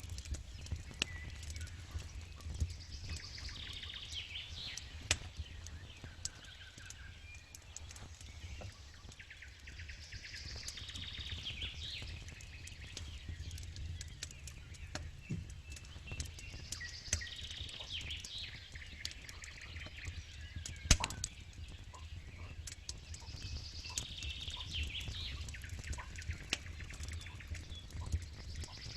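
Campfire crackling, with frequent sharp pops and one loud snap about three-quarters of the way through, over a low steady rumble. A bird sings a short phrase in the background about every seven seconds.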